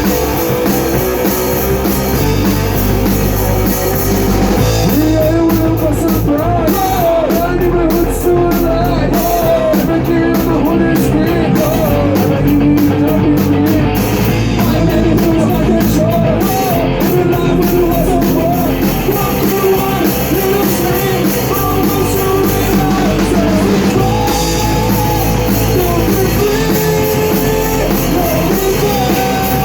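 Rock band playing a song live: electric guitar, bass and drum kit at full volume, with a wavering melodic line, vocal or lead guitar, from about five seconds in.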